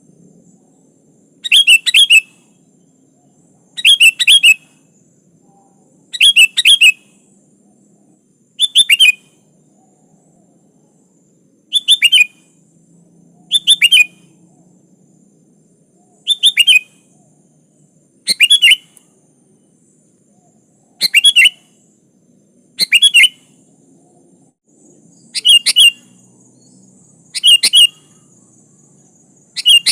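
Sooty-headed bulbul (kutilang) calling: a short, bright phrase of a few quick notes, repeated about every two seconds.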